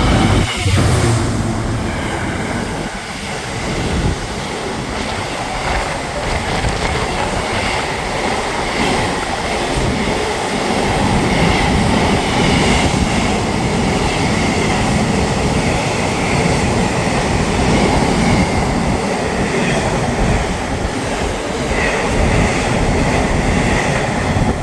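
Intermodal freight train hauled by a DB Cargo Class 66 diesel locomotive passing through the station: a long run of wagons rolling by with steady wheel clatter and some squeal.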